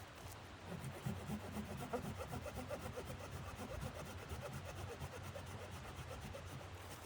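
Rapid, even scraping strokes, starting about a second in and running on.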